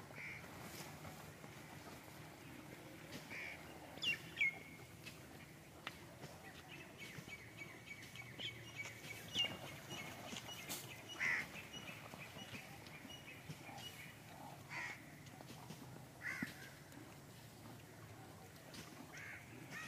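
Scattered short bird chirps and calls, several in a row around the middle, over a faint steady background.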